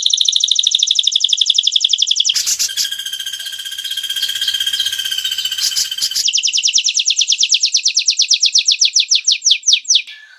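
Edited white-rumped shama (murai batu) song recording: a fast, rattling train of repeated sharp high notes, broken in the middle by a few seconds of denser buzzing with steady tones, then the rapid notes resume and space out near the end.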